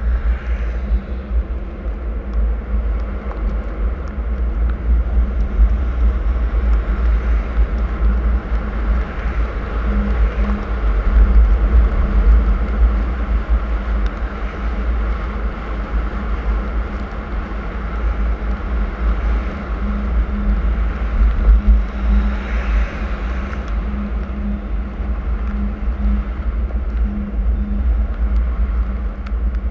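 Car driving on a snowy road: a steady low rumble of engine and road with tyre noise, swelling twice along the way.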